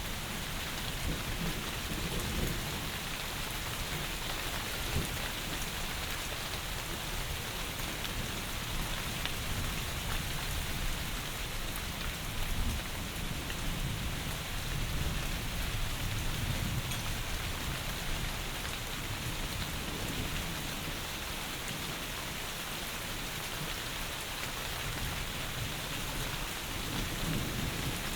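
Heavy, steady rain hissing outside a window, with a low rumble underneath that swells and fades several times.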